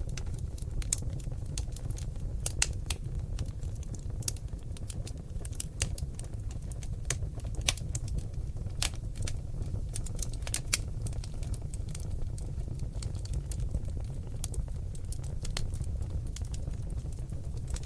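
Seasoned oak logs burning in a fireplace, crackling with irregular sharp pops and snaps over a steady low rumble of the flames.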